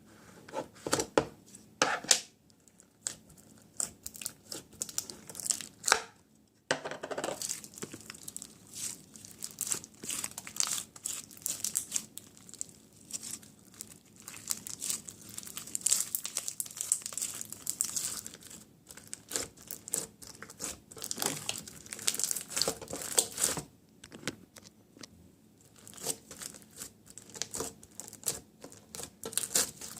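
Plastic packaging crinkling and tearing as a slime box is unpacked, in irregular bursts with a few sharp crackles in the first several seconds.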